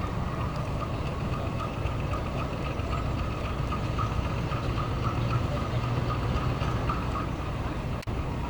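Diesel train running with a steady low engine rumble and a steady whine above it. The sound cuts out for an instant near the end.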